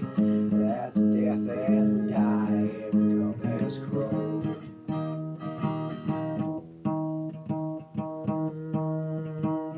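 Instrumental music: acoustic guitar playing chords, with a wavering melody line over it in the first few seconds.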